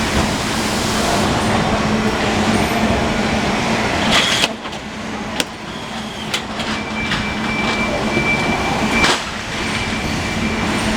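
Packing-line machinery with an automatic carton sealer running steadily with a hum, with a few sharp knocks about four, five and nine seconds in.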